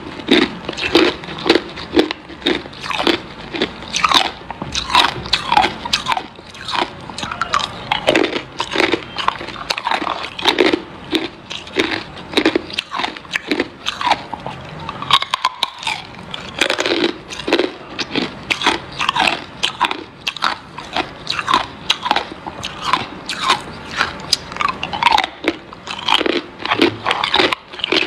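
Hard ice being bitten and chewed close to the microphone: a continuous run of sharp, crisp crunches, several a second, with a brief pause about halfway through.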